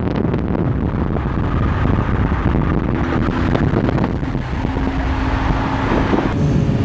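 Car engines running, with heavy wind noise on the microphone.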